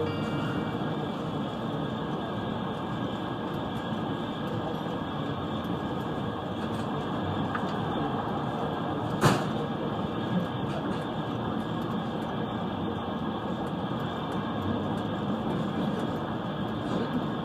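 Trans-Siberian passenger train running steadily, an even rumble of the carriage on the rails heard from inside the car. A single sharp knock sounds about nine seconds in.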